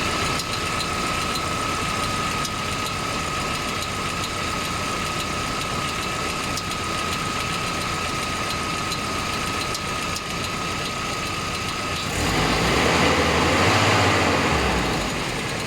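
GAZelle van engine running steadily, with a thin steady whine over it. It gets louder for a few seconds near the end.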